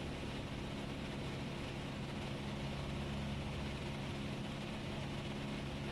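Cessna 172S's four-cylinder Lycoming engine and propeller droning steadily in level flight, heard from inside the cockpit: an even low hum of several steady tones with a hiss of airflow over it.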